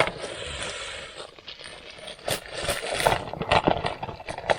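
Rummaging through a bag of supplies by hand: a rustle in the first second, then a string of small clicks and knocks as items are picked up and handled.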